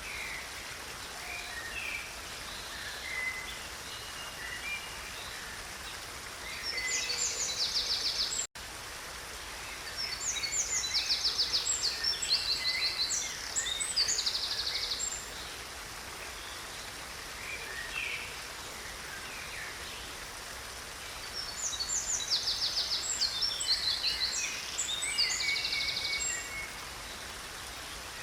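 A stream runs with a steady rush while a songbird sings three long bursts of rapid, trilling notes, with scattered shorter calls between them. The sound drops out for an instant about eight seconds in.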